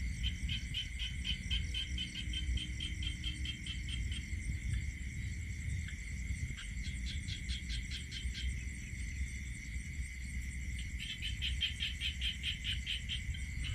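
Night insects: a steady high-pitched drone, with a fast pulsed chirping, about four or five pulses a second, that runs for the first few seconds and starts again near the end, over a low rumble.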